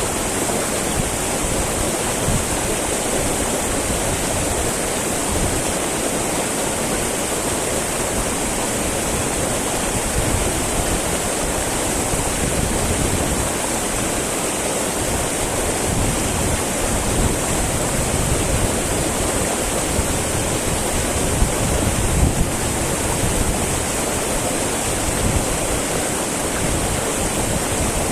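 Small mountain river babbling over rocks: a steady rush of flowing water with small splashes.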